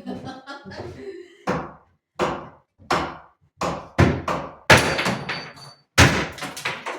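Hammer blows on old wooden furniture being knocked apart: about a dozen sharp separate strikes, irregularly spaced, the loudest in the second half.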